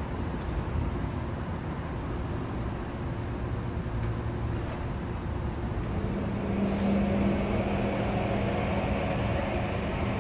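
Saitama Railway 2000 series electric train heard from inside the car, with a steady running rumble. Partway through a steady motor tone comes in, and near the end a whine begins to rise in pitch as the train picks up speed.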